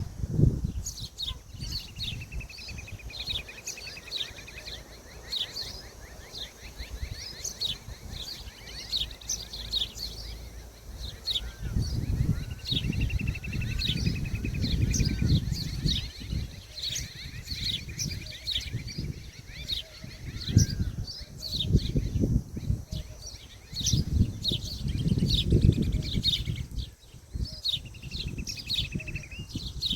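Birds chirping in quick, repeated short notes, with a trill held for a couple of seconds that comes back several times. Low rumbling noise rises and falls underneath, loudest in the middle and near the end.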